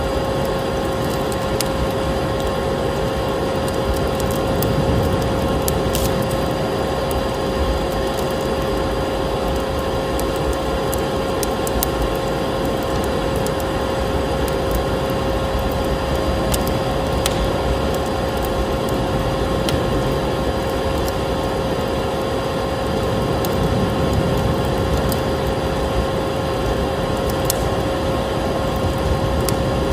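Electric vacuum cleaner running steadily, its motor holding a constant whine over a broad rush of air, mixed with a wood fire crackling with scattered sharp pops.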